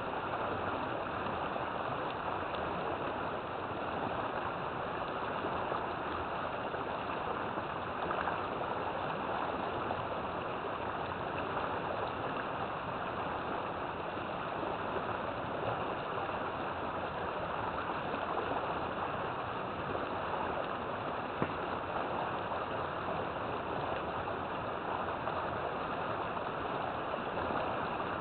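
River water flowing and rushing over rocks, a steady gurgling wash.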